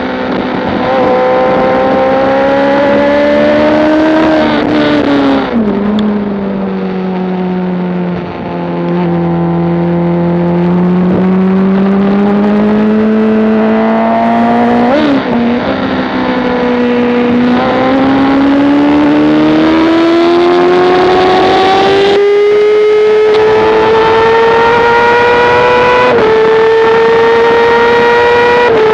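Motorcycle engine heard from on board at speed, revs rising and falling with throttle and gear changes: the pitch drops sharply about five seconds in, stays low for several seconds, blips once, then climbs steadily for about ten seconds with small steps near the end.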